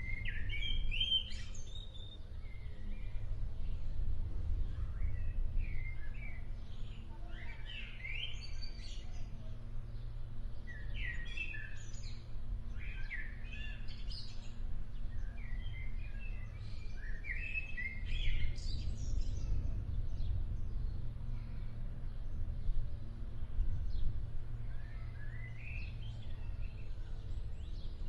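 A songbird singing short phrases of quick rising and falling notes, repeated every few seconds, over a steady low rumble.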